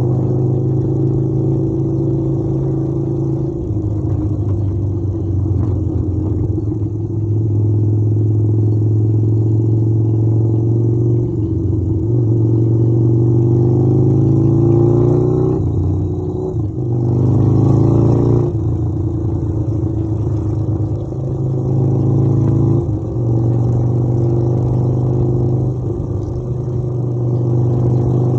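Harley-Davidson V-twin motorcycle engine running under way, its pitch climbing as it pulls and dropping sharply at gear changes several times.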